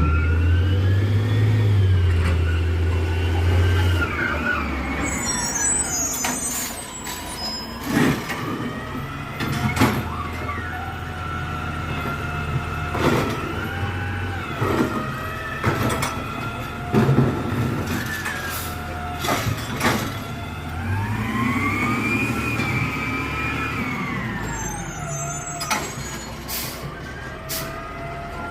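Garbage truck at work: its diesel engine runs under load with whines that rise and fall over a few seconds, and sharp metallic clanks come a dozen or so times.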